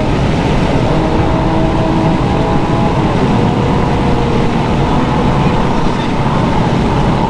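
Infiniti G37x's 3.7-litre V6 through a muffler-and-resonator-delete exhaust, pulling steadily with the engine note climbing slowly, heard from inside the car under heavy wind rush.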